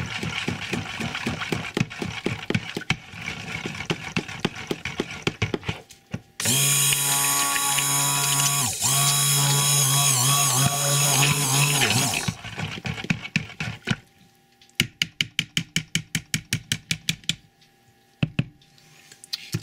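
Stick blender mixing cold process soap batter, run in short bursts and then held on steadily for several seconds, its motor humming. Near the end, a quick run of clicks, about seven a second.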